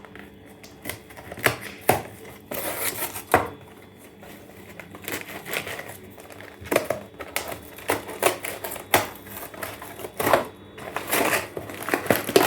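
Irregular clicks, taps and short rustles of a tea box and its wrapping being handled and opened, with a few sharper knocks.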